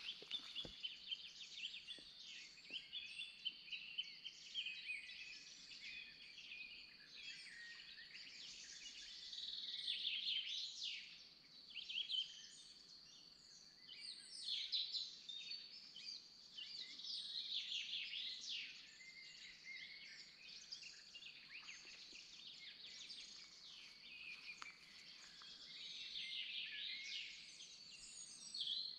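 Songbirds singing, faint: a continuous stream of chirps and short song phrases that swells and fades several times.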